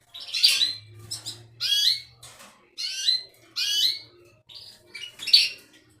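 Belgian canary calling: six short, high chirps, about one a second.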